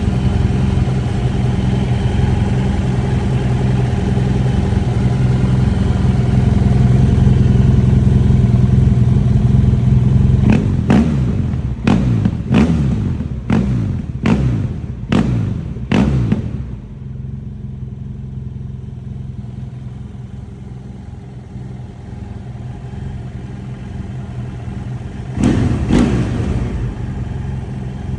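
BMW F800GS parallel-twin motorcycle engine through an Akrapovič exhaust, running at a steady fast idle. About a third of the way in it is revved in about six quick throttle blips, each falling back. It then settles to a lower, quieter idle, with one more blip near the end.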